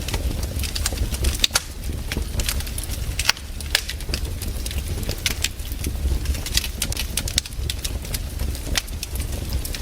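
Wood campfire crackling, with irregular sharp pops and snaps a few times a second over a steady low rumble.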